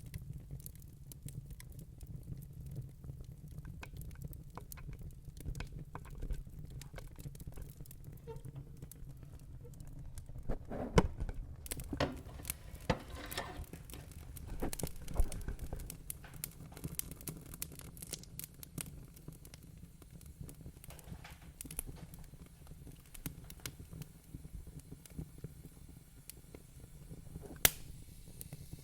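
Wood fire in a fireplace crackling, with scattered sharp pops over a low, steady rumble of the flames. A few louder pops stand out: about a third of the way in, about halfway, and once near the end.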